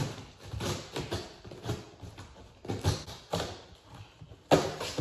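Irregular knocks and thumps, about one or two a second, from handling and unpacking the generator, with a louder thump near the end.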